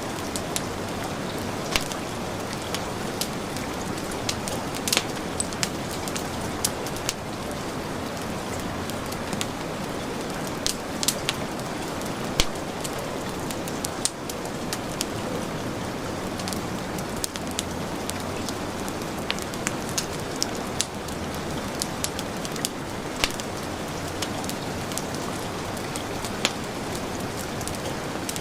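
Steady heavy rain with a wood fire crackling over it: irregular sharp pops and snaps scattered through the hiss.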